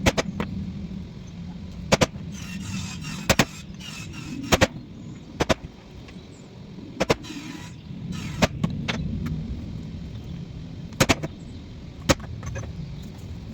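About a dozen sharp knocks at uneven intervals, roughly one a second, some in quick pairs, over a steady low hum.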